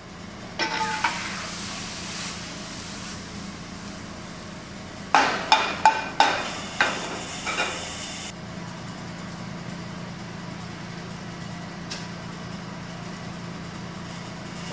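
Food-preparation sounds over a steady machine hum: a brief hiss near the start, then a quick run of about six sharp knocks and clatters a few seconds later.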